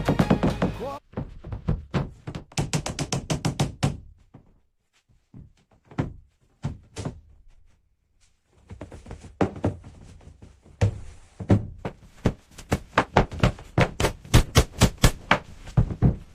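Construction work: a rapid, irregular series of sharp knocks and taps in bursts, with a pause of a few seconds in the middle. A song ends about a second in.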